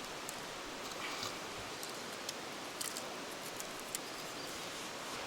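Wood campfire crackling: irregular small, sharp pops over a steady hiss.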